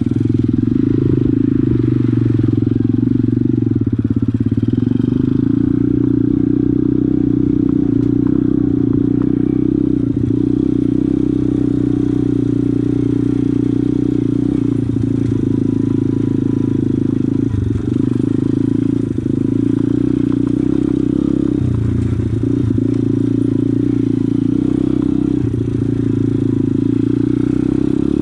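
Pit bike engine running at fairly steady revs, with a few brief changes in revs.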